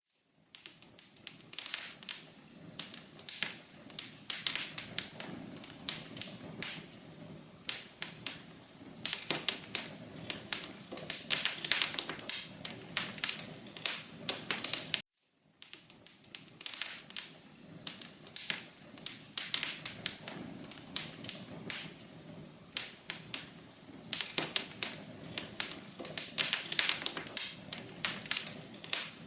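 Wood fire crackling in a fireplace: irregular sharp pops and snaps over a soft, steady hiss. The sound cuts out for a moment about halfway through, then resumes.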